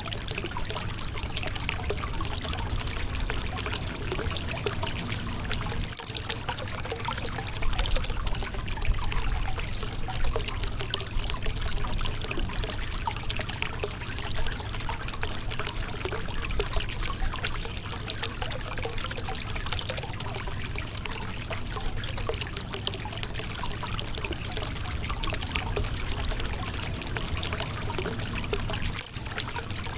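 River water running over a rocky bed: a steady rush of splashing and trickling.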